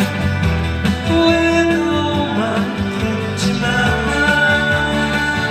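A live band playing a trot song, with steady sustained instrumental melody lines over a bass beat.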